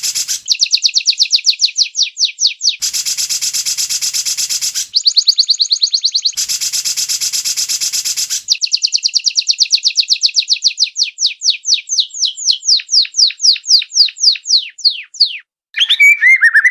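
White-rumped shama song from an edited training recording: fast trills of downward-sweeping whistled notes alternate with harsh, dense rattles about two seconds long. A long trill in the second half slows as it goes, and a short, lower warbled phrase follows near the end.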